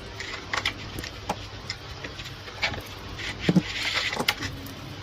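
Workbench handling noises: irregular light clicks and knocks of metal parts being worked on, with a short scraping rush about three and a half seconds in.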